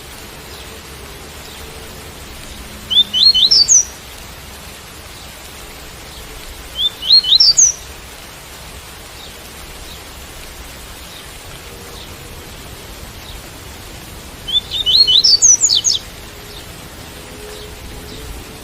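Double-collared seedeater (coleiro) singing the tui-tui song: three short phrases of quick rising whistled notes, the last the longest, over a steady hiss of rain.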